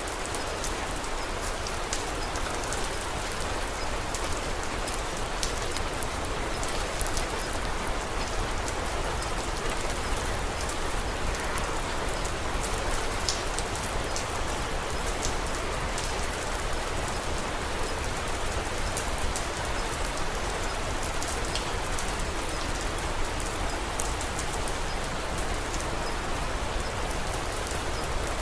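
Steady rain falling, with scattered small sharp crackles of a wood fire mixed in.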